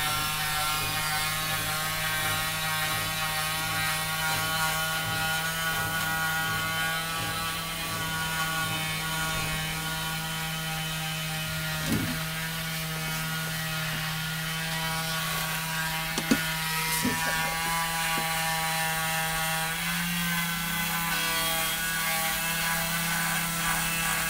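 Indesit washing machine spinning: the drum motor runs with a steady whine that steps up in pitch about twenty seconds in as the spin speed rises, with a few brief knocks.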